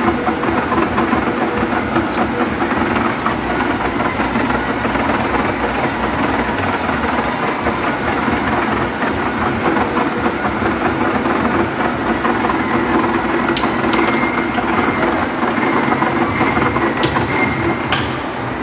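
Lathe running steadily while turning a split Teflon seal. A dense machine noise with a steady hum runs throughout. Two sharp clicks come later on, each followed by a short high whine.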